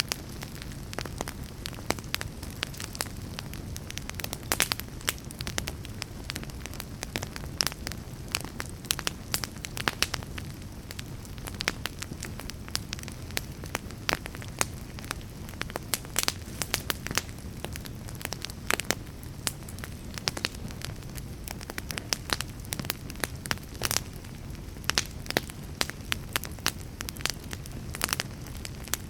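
Fire crackling: a steady low rumble of burning with frequent sharp, irregular pops and snaps throughout.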